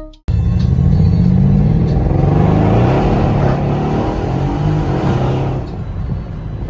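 A performance car's engine and exhaust running loudly under acceleration, then easing off about five and a half seconds in.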